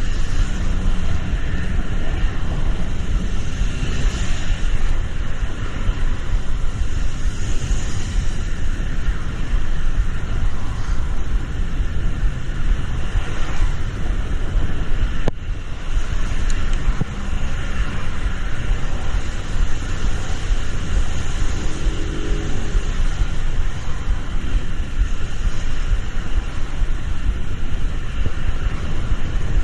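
Steady rumble and hiss of road traffic in the rain, with tyres on a wet road.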